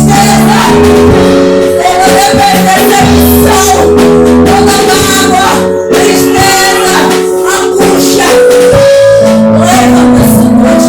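Live worship music: a praise song sung over a band, with a steady bass line and held chords under the bending vocal melody.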